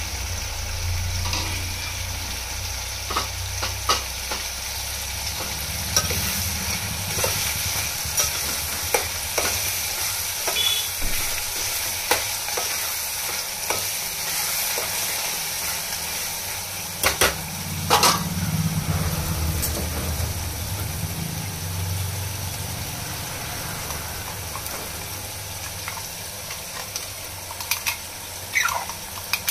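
Chicken curry sizzling in a metal pot while a steel spoon stirs it, with scattered clinks and scrapes of the spoon against the pot, the loudest about two thirds of the way in.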